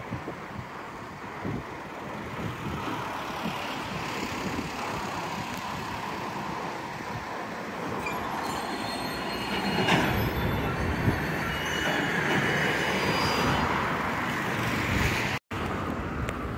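Container freight train rolling along the tracks: the steady rumble and clatter of the wagons, louder from about halfway, with thin high-pitched wheel squeal. The sound drops out briefly near the end.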